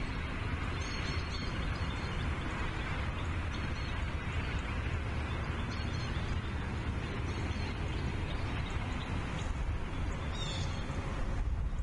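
Steady wind rumble and hiss on an outdoor nest-camera microphone, with a few faint, short, high bird chirps scattered through.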